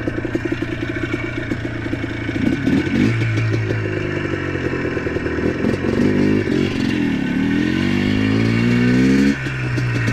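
ATV engine ticking over with an even chugging pulse, then given throttle about two and a half seconds in, its pitch rising and falling as it rides, before easing off suddenly near the end.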